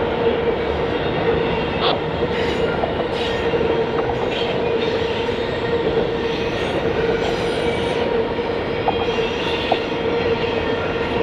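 Railroad cars rolling past on the rails, a continuous rumble with a steady squeal from the wheels and scattered clicks over the track.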